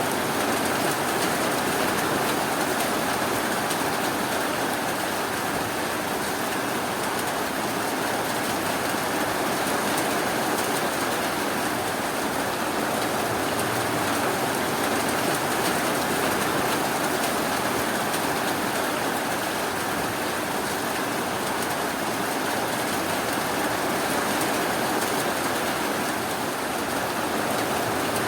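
Rain falling steadily, an even hiss with no thunder or other sudden sounds.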